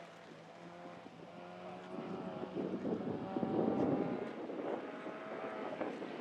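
Fiat X1/9's four-cylinder engine revving up and down as the car is driven hard through a cone course, its pitch rising and falling repeatedly and growing louder about two seconds in.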